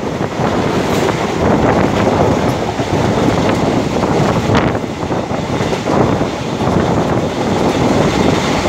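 Passenger train running at speed, heard from an open door or window of the coach: steady noise of the wheels on the rails, with wind buffeting the microphone.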